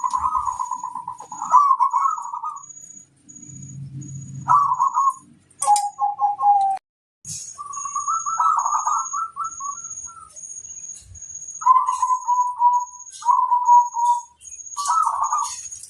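Zebra doves (perkutut) cooing in short rolling, trilled phrases, one after another, with a lower-pitched bird answering about six seconds in. A faint high pip repeats evenly behind them.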